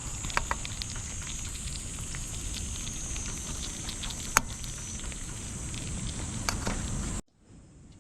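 Wood campfire crackling, with scattered sharp pops over a steady outdoor hiss that has a high band. The sound cuts off abruptly near the end.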